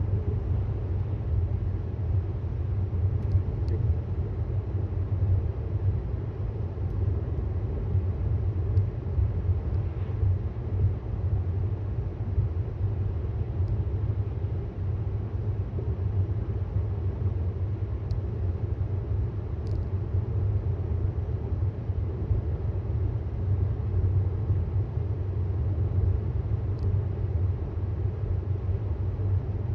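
Steady low rumble of road and tyre noise from a moving 2018 Tesla Model S 75D, an electric car with no engine note.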